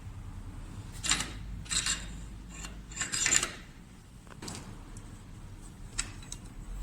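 Short metal scrapes and clicks of a diesel fuel injector being taken apart by hand, its nozzle cap nut being unscrewed with a special tool. About five brief scraping bursts.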